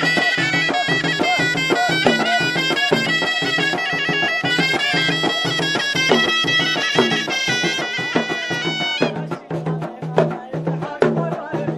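Ghaita, the Moroccan double-reed shawm, playing a shrill, ornamented Jbala folk melody over drum beats. The ghaita breaks off for about two seconds near the end, leaving only the drum, then comes back in.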